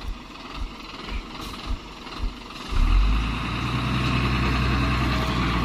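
A heavy truck's diesel engine. There are a few soft low thuds for the first couple of seconds, then close to three seconds in a loud, steady engine sound suddenly sets in and holds.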